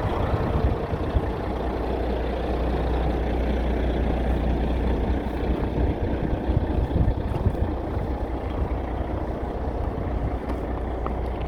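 Diesel engine of a 2006 Kenworth T800 semi truck idling with a steady low rumble.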